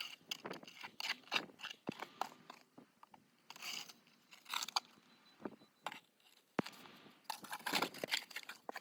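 Snow shovel crunching and scraping through snow, in irregular strokes, with longer scrapes about halfway through and near the end.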